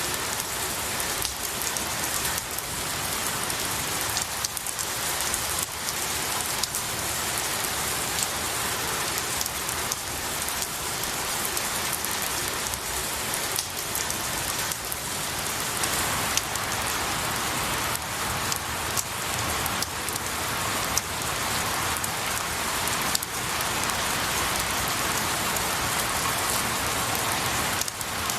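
Steady rain falling on pine needles and trees, an even hiss of rain with many separate drops ticking throughout.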